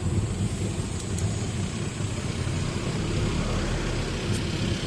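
Truck engine running steadily with a low, even drone, the vehicle held up in slow traffic.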